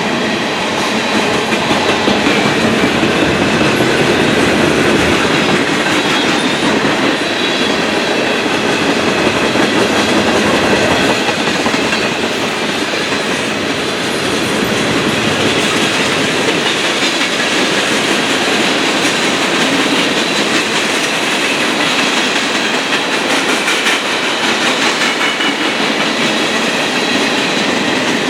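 Freight train cars rolling steadily past, with wheels clacking over the rail joints.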